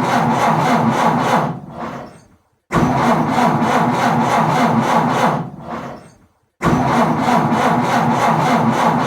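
Car engine cranked by its starter motor without catching, a struggling start that fails. One cranking attempt already under way dies away about two seconds in, and two more begin abruptly about three and seven seconds in, each running a few seconds before fading out, with brief silences between.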